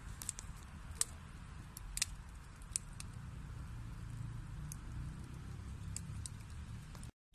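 Wood fire burning in a fireplace: a steady low rumble of the flames with sharp, scattered crackles and pops, the loudest about one and two seconds in. The sound drops out for a moment near the end.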